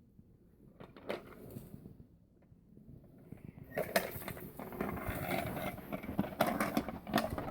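Close-up eating noises: a dense run of clicks, crunches and rustles that starts about four seconds in and keeps going, after a quieter stretch with only a few faint clicks.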